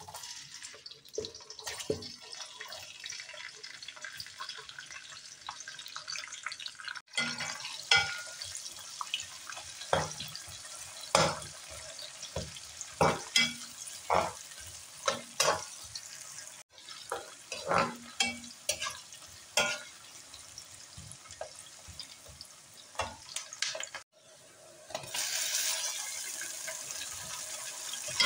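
Sliced onions sizzling in hot oil in a steel pot, with repeated clicks and scrapes of a spoon stirring against the pot. Near the end the sizzle grows louder and brighter as raw chicken pieces fry in the oil.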